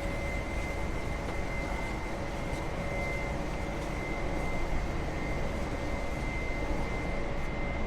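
Steady industrial machinery noise on a factory floor, with a constant high-pitched whine over an even rumbling hiss.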